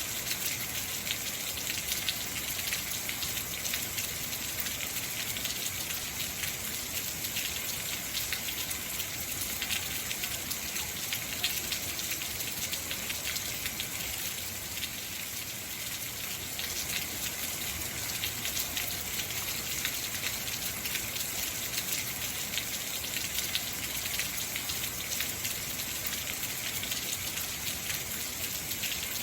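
Heavy rain falling steadily, a dense even hiss of drops spattering on surfaces.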